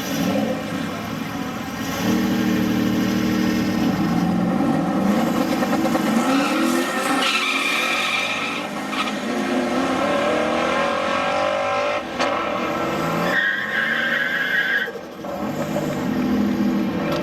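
Drag-race car engines revving hard under acceleration, the pitch rising through the gears with brief dips between, mixed with tyre squeal.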